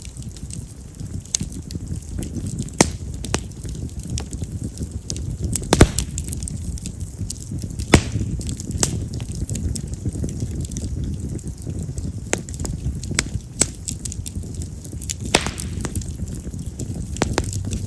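Split wild cherry (yamazakura) firewood burning in an open fire: a low rumble of flame with sharp, irregular crackles and pops, the loudest about six and eight seconds in.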